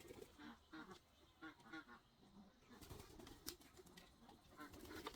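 Farm poultry calling faintly: a run of short, repeated calls, with a sharp click about three and a half seconds in.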